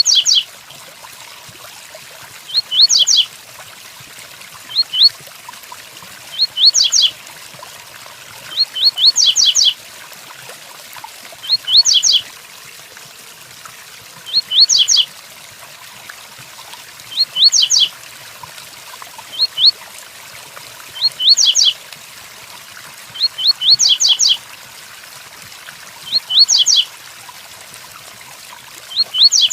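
Double-collared seedeater (coleiro) singing the 'tui-tuí' song type: short phrases of two to four quick, sharp, high notes, repeated about every two seconds. A steady rain sound runs under it.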